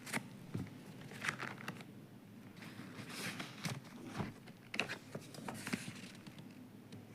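Paper gift wrapping being torn and crinkled open by hand, in short, irregular rustles.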